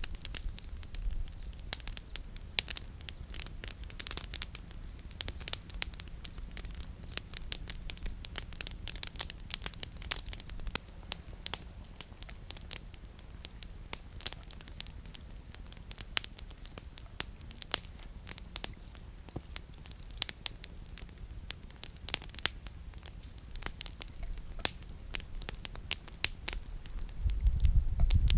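Wood campfire burning, the firewood crackling and popping in sharp, irregular snaps. A low rumble swells near the end.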